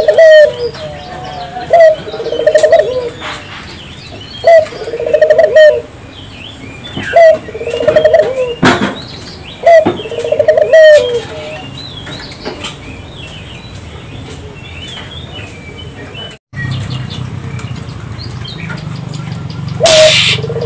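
Puter dove (Barbary dove) cooing: a rolling, wavering coo about a second long, repeated every two to three seconds five times, then a long pause filled with small birds chirping. Near the end a loud rushing burst, then the coo starts again. A steady high whine runs underneath.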